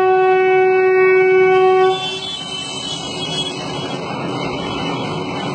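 Train horn sounding one long steady note that cuts off about two seconds in, followed by the steady running noise of the train.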